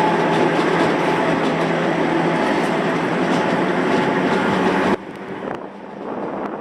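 Gornergrat electric cogwheel train running, a loud dense clatter with a steady motor hum. About five seconds in it cuts abruptly to a quieter, thinner running sound.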